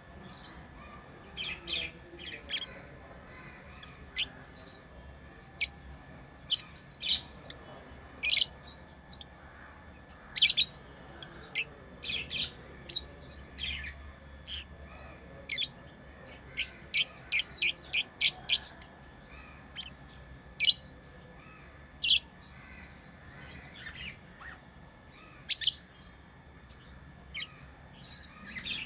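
Pet lovebirds giving short, sharp, high-pitched chirps at irregular intervals, with a quick run of about eight chirps near the middle.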